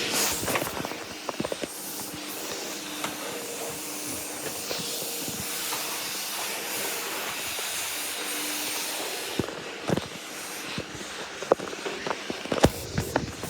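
Vacuum cleaner running with a steady hiss, with scattered knocks and clicks that come more often in the last few seconds.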